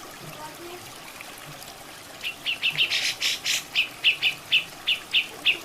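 Cucak jenggot (grey-cheeked bulbul) giving a rapid series of sharp chattering notes, about four a second, starting a couple of seconds in, over a steady trickle of running water.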